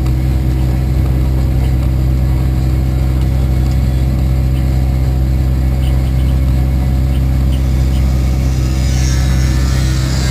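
Race car engine running steadily at an unchanging speed, a loud low drone heard close up. About a second and a half before the end, a hiss rises in the upper range over it.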